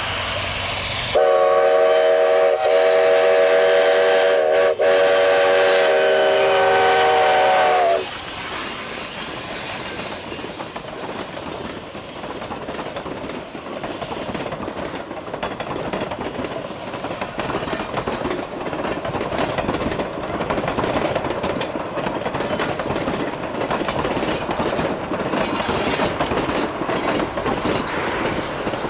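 Narrow-gauge steam locomotive whistle blowing one long chord of several tones for about seven seconds, with a momentary dip partway through. It then stops and the train's running sound, a steady clatter and hiss, carries on.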